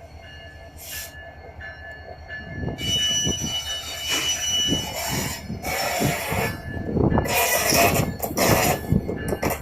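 Train pulling in, its wheels squealing in thin high tones as it clatters over the rails, growing louder from about three seconds in.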